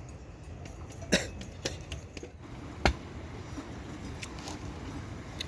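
A few short, sharp knocks over a steady low background, the loudest about three seconds in.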